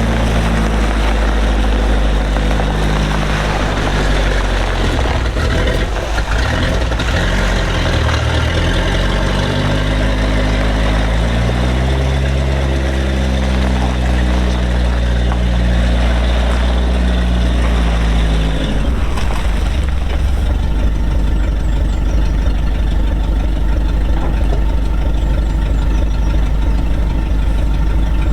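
Rolls-Royce B80 straight-eight petrol engine of an Alvis armoured vehicle running as the vehicle is driven into its parking place, its pitch rising and falling with the throttle. About two-thirds of the way through it settles to a steady idle.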